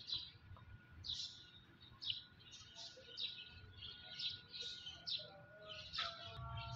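Birds chirping: short, high calls repeated two or three times a second throughout. A low hum joins near the end.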